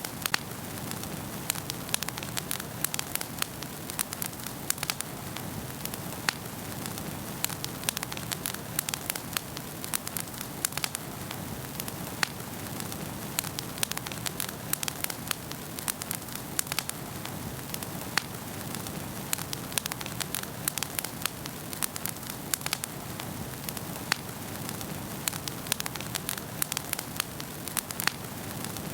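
Wood fire burning in a fireplace: a steady low rushing of flames with frequent irregular sharp crackles and pops from the burning logs.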